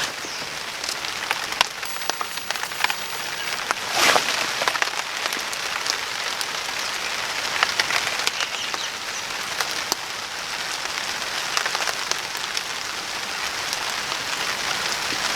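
Steady rain falling, with scattered sharp ticks throughout and a louder rustle about four seconds in.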